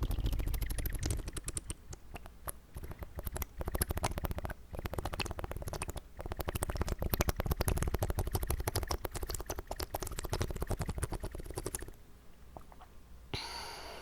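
Close-miked wet mouth sounds made with water in the mouth: a dense run of rapid clicks, smacks and squelches that thins out about twelve seconds in, followed by a short breath near the end.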